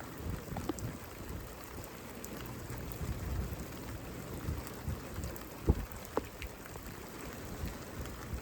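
Rain falling steadily, with scattered sharp drop taps, one louder tap about two-thirds of the way in, over an uneven low rumble.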